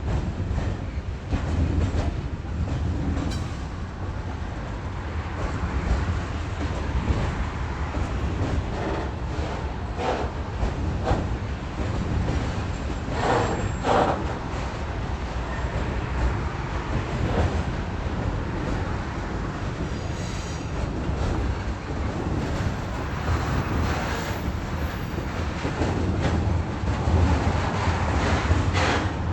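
Train running on the track: a steady low rumble with scattered wheel-on-rail knocks and a brief squeal about halfway through.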